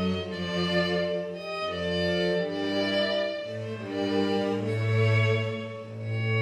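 Slow string music, violin and cello playing long held notes over a deep bass line that grows stronger past the middle.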